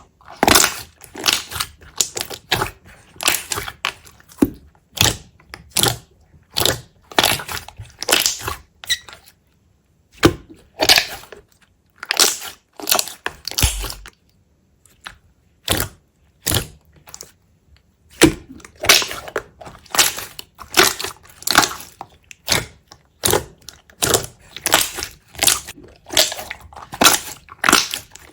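Repeated short crunching, crackling sounds, roughly one or two a second, with a few brief pauses.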